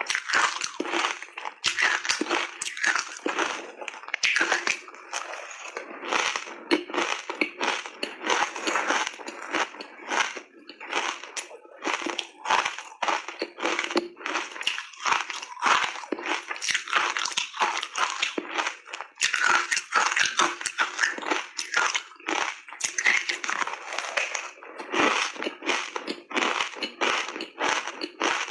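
Close-up crunching and chewing of ice coated in matcha tea powder, taken in big bites: a rapid, irregular run of sharp crunches.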